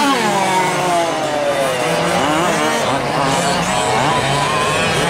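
Several 1/5-scale RC trucks' small two-stroke gas engines racing, overlapping as they rev up and drop off in pitch again and again; one falls away sharply at the start, and another rises about two seconds in.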